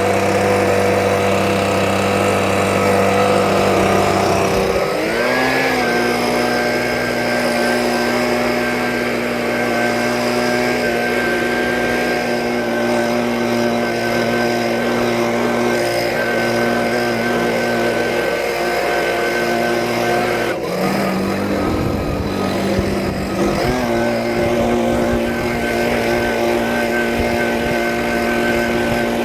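Small petrol engine of a snowblower running steadily. It speeds up about five seconds in, dips in speed for a couple of seconds around two-thirds of the way through, then picks back up.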